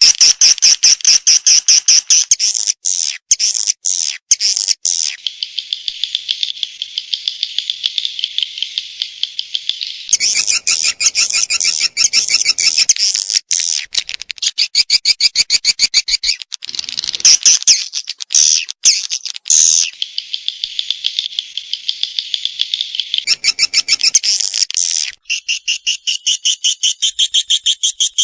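Swiftlet calling track: a dense run of rapid, high twittering chirps of edible-nest swiftlets, broken by abrupt splices where the pattern changes. This is the kind of lure sound played at swiftlet houses to draw the birds in.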